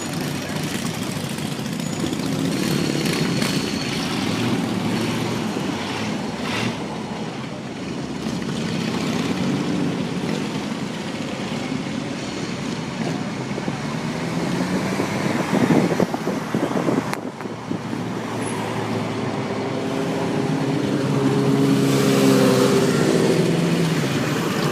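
Classic car engines running at a car show, their pitch rising and falling as they rev or drive by. A few louder sharp knocks come about fifteen seconds in.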